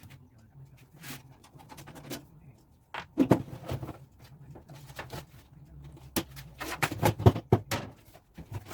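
Irregular knocks and clicks of objects being handled and set down, loudest about three seconds in and again near the end, over a faint steady low hum.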